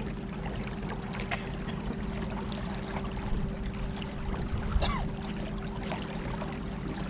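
Battery-powered 50-pound-thrust electric trolling motor running steadily on a kayak, a constant hum over the rush of river water along the hull, with a brief knock about five seconds in.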